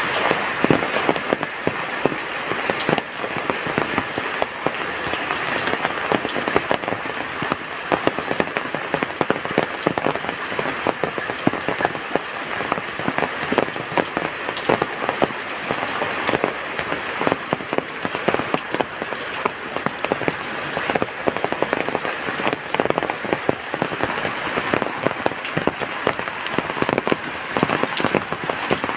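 Heavy rain falling steadily, a dense patter of countless drops hitting a surface.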